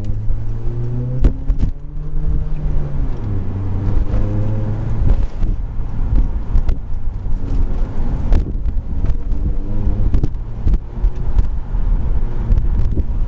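Straight-through exhaust of a 2018 Honda Accord's turbocharged four-cylinder, with the resonator and muffler deleted, heard through an open car window while driving: a loud low rumble whose engine note climbs and drops back several times as the car pulls through the revs.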